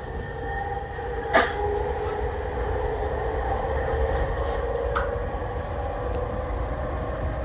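Tokyu 3020 series electric train running, heard from inside the front car: a steady rumble of wheels on the track under a motor whine that holds at about one pitch. A sharp clank comes about a second and a half in, and a lighter one a few seconds later.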